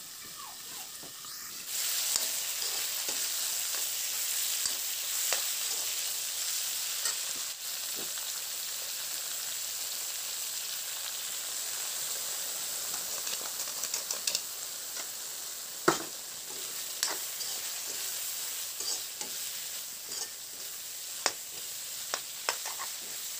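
Pork pieces sizzling and frying in a metal kadai with a steady hiss that grows louder about two seconds in. A steel ladle stirs the meat, with occasional sharp clicks and scrapes against the pan.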